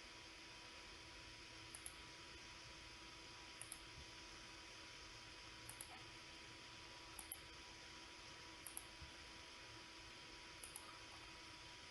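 Computer mouse clicking in pairs, about six double-clicks a second or two apart, over a faint steady hiss and hum.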